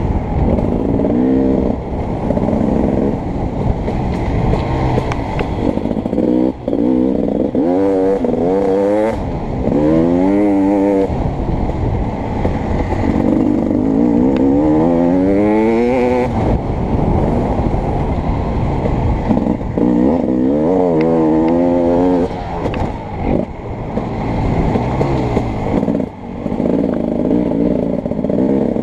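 Beta 300RX two-stroke dirt bike engine revving hard and backing off over and over, the pitch climbing and dropping several times.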